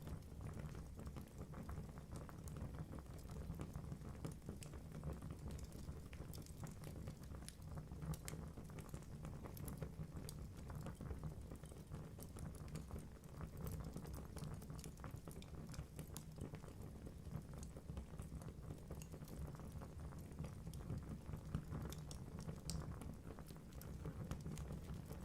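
Wood fire burning in a fireplace: a steady low rumble of the flames with frequent small crackles and pops from the logs.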